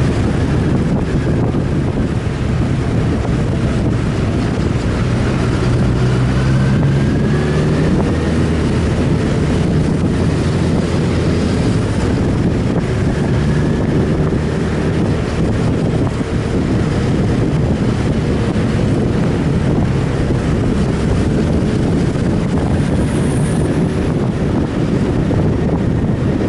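Sport motorcycle engine running under way, its pitch rising and falling with the throttle, under heavy wind noise buffeting the microphone.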